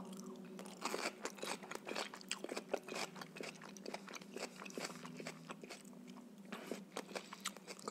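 A person biting into and chewing a raw radish close to the microphone: a run of quick, crisp crunches and wet chewing clicks.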